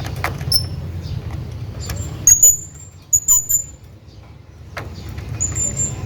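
Hanging parrot giving short, very high-pitched squeaky chirps in small clusters. The loudest come at about two and a half seconds and three and a half seconds, with another short run near the end. A steady low rumble runs underneath.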